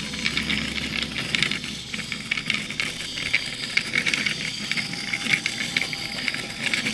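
Pen of a handwriting planchette scratching across paper as the planchette is pushed around: a scratchy hiss with many fast, irregular small ticks.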